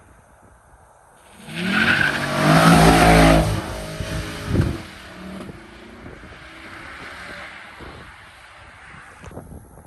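A car engine revving up loudly under hard acceleration from about a second in, with a drop in pitch about four and a half seconds in, then fading as the car drives off.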